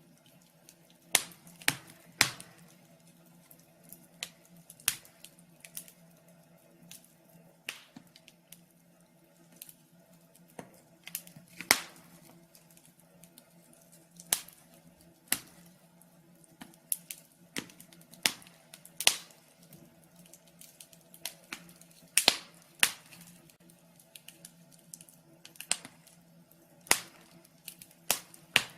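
Wood fire crackling: sharp, irregular pops and snaps about once a second, over a faint steady low hum.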